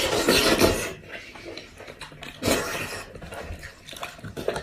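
Close-miked eating sounds from someone eating goat head meat: wet chewing and slurping in noisy bursts, loudest in the first second and again about two and a half seconds in.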